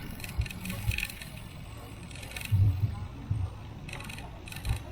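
Bicycle riding noise picked up on the ride camera: irregular low wind thumps on the microphone, with short bursts of higher rattling three times.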